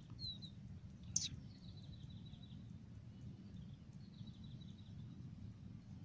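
Faint bird chirping over a low outdoor rumble: one short, sharp downward chirp about a second in, then thin high chirps.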